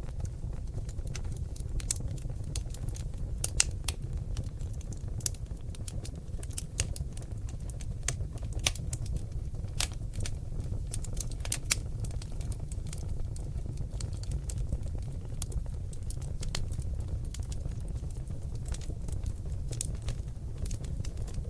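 Seasoned oak logs burning in a fireplace, crackling: irregular sharp pops and snaps, several a second, over a steady low rush of flame.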